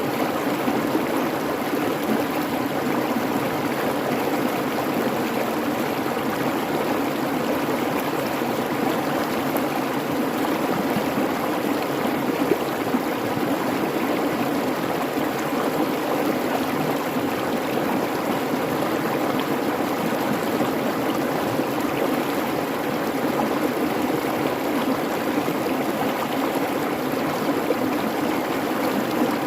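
Creek water babbling over rocks, a steady, unbroken rush.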